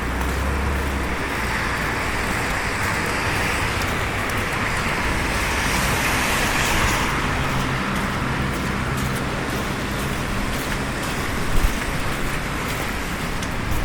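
Steady city street traffic noise, with one vehicle passing close about six to seven seconds in.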